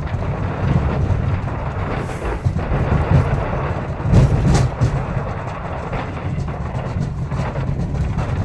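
Ford F-250's 6.7L Power Stroke V8 turbo-diesel running under load while pushing snow with the plow, with several knocks and scrapes, the loudest about four seconds in, as the steel cutting edge of the blade bounces and catches on the driveway.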